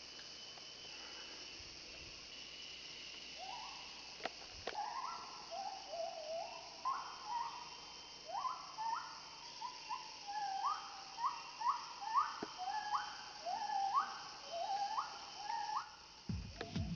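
Rainforest ambience: a steady high buzz of insects, joined about three seconds in by a long series of loud whooping calls, each note sliding sharply upward, repeated many times in quick succession. A couple of sharp clicks sound near the first calls.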